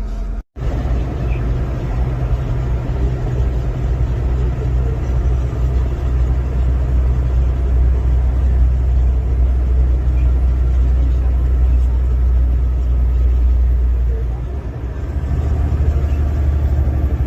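Steady low rumble of a semi-truck on the move, engine and road noise heard from inside the cab. The sound cuts out briefly about half a second in.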